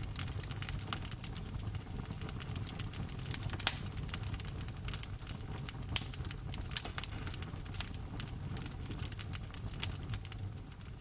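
Wood fire crackling in a fireplace: a dense run of small snaps over a low rumble of the burning logs. Two louder pops come about a third of the way in and just past halfway.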